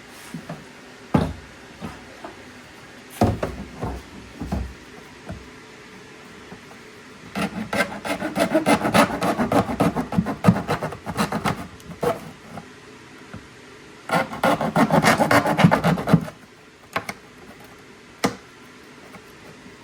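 Hacksaw cutting in two spells of quick back-and-forth strokes, the first about four seconds long and the second about two, preceded by a few separate knocks as the work is handled.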